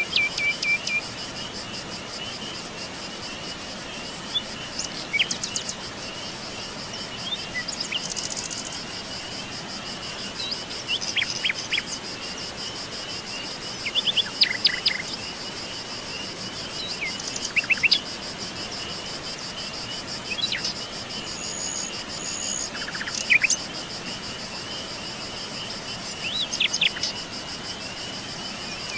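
A steady, high, pulsing trill of crickets or other insects, with songbirds giving scattered short chirps and calls. A brief high whistled note comes about three-quarters of the way through.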